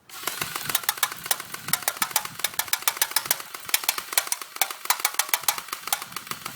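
Airsoft gun firing a continuous full-auto burst: a rapid, even train of sharp clicking shots, several a second, over a steady mechanical whir.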